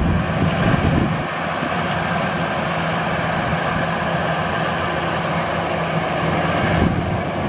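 Maxxi Bimo rice combine harvester running steadily, its engine giving a constant drone.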